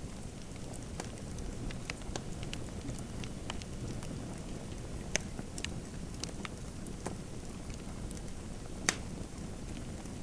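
Wood fire crackling in a fireplace: a steady low rumble with scattered sharp pops and snaps, two louder pops about five seconds in and near the end.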